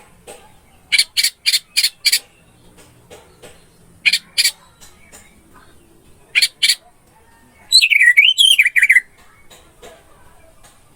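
Orange-headed thrush (anis merah) song: a run of five short harsh notes, then two pairs of the same notes, and near the end a quick warbling phrase that slides up and down in pitch.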